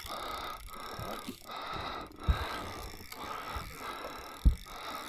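Wind rushing over the microphone as a steady hiss, with two stronger low buffets about two and four and a half seconds in.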